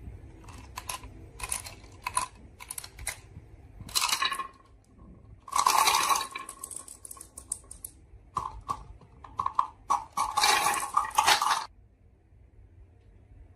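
Marbles clicking and clattering along a marble run: scattered single clicks, then dense bursts of rattling about four seconds in, around six seconds in, and again from about eight and a half to nearly twelve seconds in.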